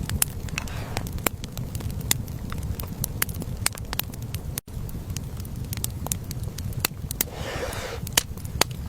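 Fire crackling, with irregular sharp pops over a low rumble and a short rustle about seven seconds in.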